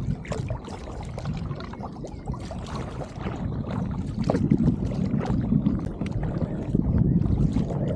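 Kayak paddle strokes: water splashing and trickling off the blades as they dip into the river, over a low rumble.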